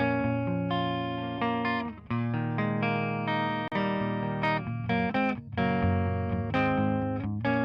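Electric guitar playing a phrase of picked notes and chords, with brief breaks between phrases. The recorded guitar track is run through Slate Digital's Virtual Tape Machines tape-emulation plugin.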